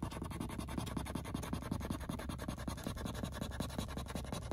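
Scratch-off lottery ticket being scratched with a coin or scraper: rapid, continuous back-and-forth scraping strokes across the card's coating.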